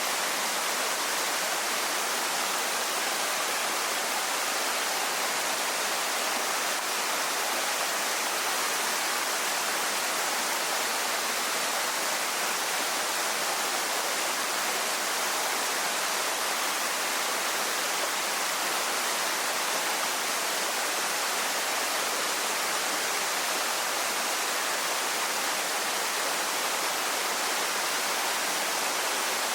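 Waterfall pouring: a steady, even rush of falling water with no breaks or changes.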